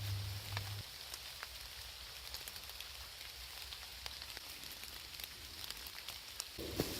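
Steady rain with a campfire crackling in scattered sharp clicks. A low hum stops about a second in, and a louder low rustling noise starts just before the end.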